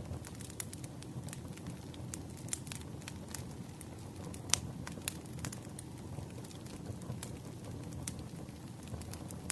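Campfire burning with a steady low rumble and irregular wood crackles and pops, the loudest a sharp pop about four and a half seconds in.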